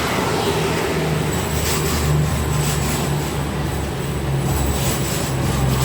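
Long freight train rolling steadily past, its wagons giving a continuous low rumble. Wheel clacks come in pairs as each wagon's wheels pass.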